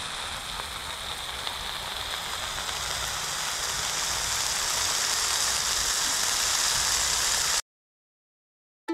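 Hamburger patties sizzling on a Blackstone flat-top griddle: a steady, dense hiss that grows slightly louder, then cuts off abruptly about a second before the end.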